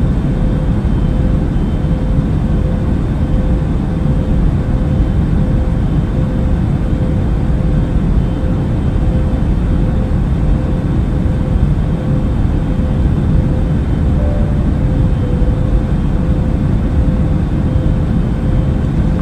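Airplane cabin noise in flight: a steady, unbroken low rumble of engine and air noise with a faint constant hum.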